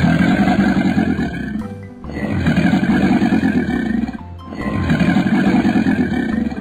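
Crocodile growl sound effect, three long growls of about two seconds each, with background music underneath.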